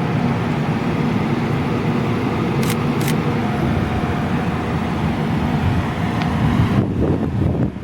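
A motor vehicle running with steady engine hum and road noise. Two short clicks come about three seconds in, and the high hiss falls away near the end.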